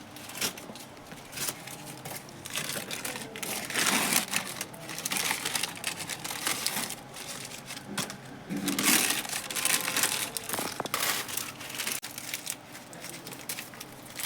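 Masking paper and tape crinkling and tearing in irregular handfuls, with a few louder rustles about four and nine seconds in, as the masking is stripped from a freshly painted front bumper.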